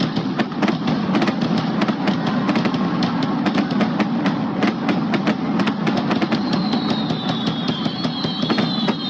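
Fireworks going off: a fast, irregular run of sharp pops and bangs over a steady low rumble. Near the end come two high whistling tones that glide slightly down.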